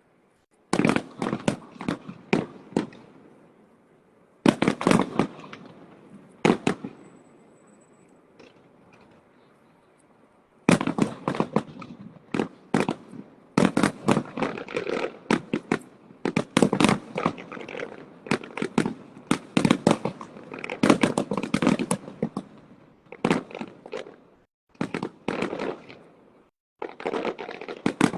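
Fireworks going off in volleys of sharp bangs and crackles: a few short clusters with pauses between them, then from about a third of the way in a dense, almost unbroken barrage with only brief gaps.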